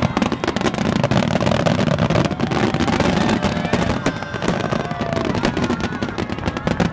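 Starmine fireworks barrage: many shells bursting in rapid succession, a dense run of bangs and crackles over a continuous rumble.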